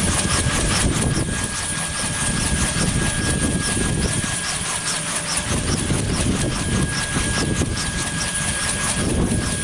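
Kaman K-MAX helicopter's turboshaft engine running with its intermeshing rotors turning: a steady high whine over a low rotor rumble that swells and fades.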